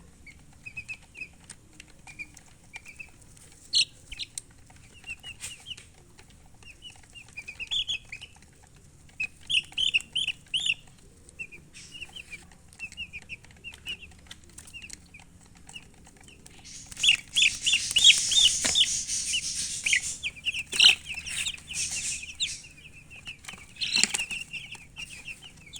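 Baby chicks peeping in short, high, rapid chirps, with a louder flurry of chirping over a noisy rustle about two-thirds of the way through.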